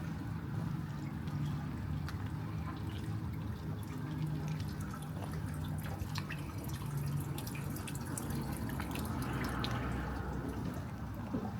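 Light rain falling, with many scattered drops dripping and tapping over a steady low rumble.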